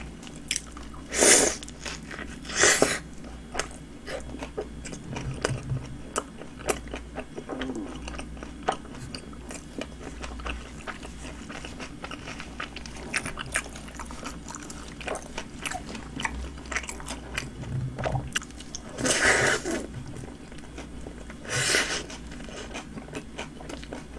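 A person biting and chewing a Subway roast beef sandwich on flatbread, with many small wet mouth clicks. A few louder sounds come about a second in, near three seconds, and twice near the end.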